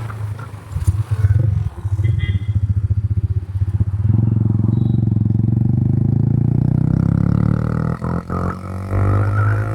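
Honda CBR150 motorcycle engine running through its exhaust, pulsing unevenly at first, then held at a steady, slowly rising speed from about four seconds in, with a brief dip near the end before it steadies again.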